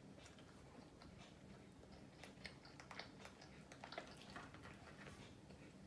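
Faint chewing of fried chicken, with scattered small mouth clicks and smacks, mostly in the middle of the stretch.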